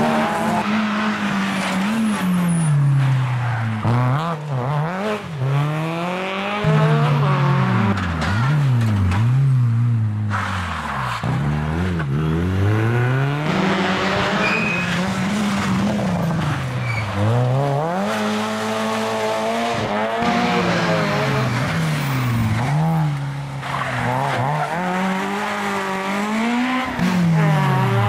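Rally car engines revving hard through a hairpin, the pitch rising and falling again and again as the drivers change gear and lift off and back on the throttle.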